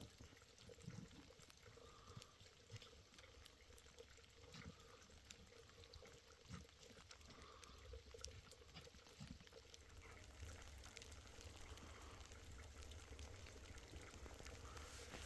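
Near silence: a faint low rumble, a little stronger in the second half, with scattered soft clicks.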